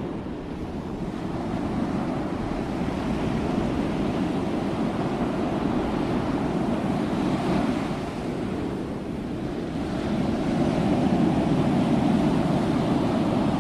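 Sea waves washing onto a shore in a steady rush. The surf swells and eases gently and grows louder again about ten seconds in.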